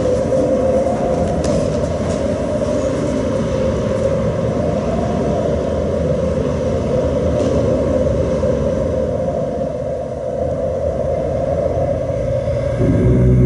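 A steady, loud rumbling noise with a few faint clicks. Near the end it gives way to a lower, steady drone with a definite pitch.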